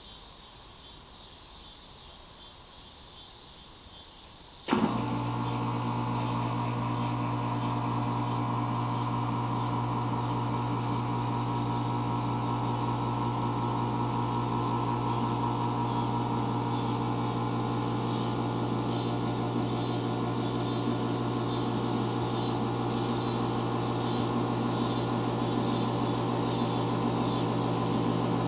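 A 5-ton Carrier Comfort Series heat pump's outdoor unit switches on about five seconds in with a sharp click, then its Copeland scroll compressor runs with a steady low hum. The unit is short cycling and has a bad fan motor.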